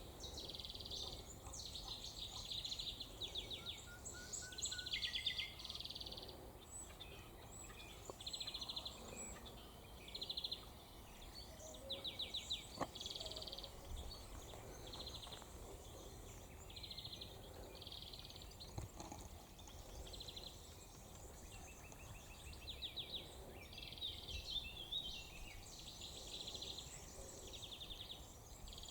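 Wild songbirds singing. A short, fast, high trill repeats about once a second, with scattered chirps and twitters from other birds between them.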